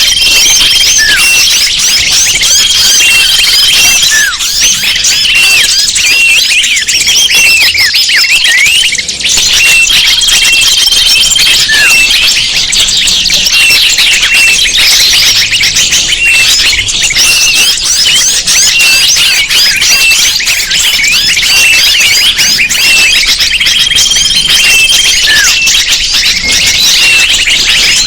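Bird-lure recording: a dense chorus of many small birds chirping and twittering rapidly at high pitch, with a held whistled note that comes back about every twelve seconds as the recording loops.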